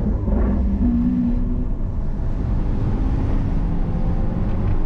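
Lamborghini Aventador's V12 engine heard from inside the cabin, running steadily at moderate revs under a constant low rumble.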